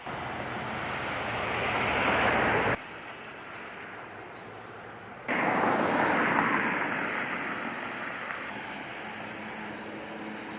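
Vehicles driving past on a wet road, their tyres hissing. The first grows louder and cuts off abruptly just under three seconds in. A second cuts in abruptly about five seconds in and fades away as it moves off.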